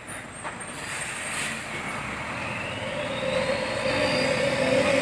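A heavy truck approaching with a loud modified 'wolf' exhaust, growing steadily louder, with a rising whine in the middle and a strong steady howling tone from about three seconds in.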